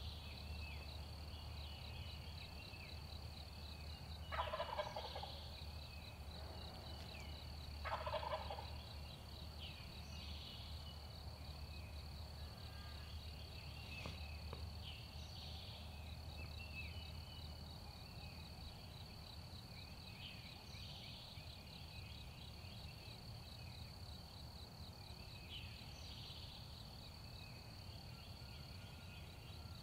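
Wild turkey gobbler gobbling twice, about four seconds apart. A steady high insect buzz and scattered songbird chirps run underneath.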